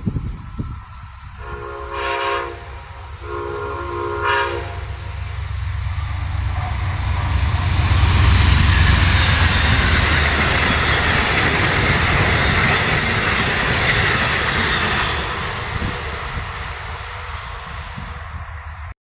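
Train sounding two horn blasts, then approaching and passing with a heavy rumble and rail noise that builds to its loudest about eight seconds in and slowly eases off.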